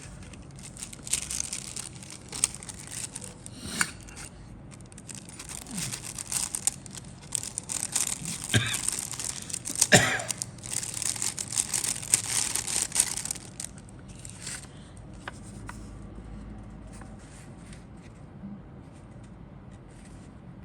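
Thin plastic bags crinkling and rustling as a model kit's parts are handled, a dense crackle for about twelve seconds. After that come only a few scattered light clicks and rustles.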